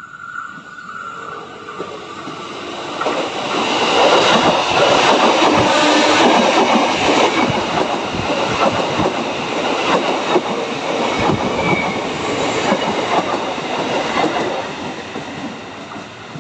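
Electric commuter train passing close by, wheels clattering over the rail joints. The sound builds over the first few seconds, stays loud through the middle, and falls away near the end.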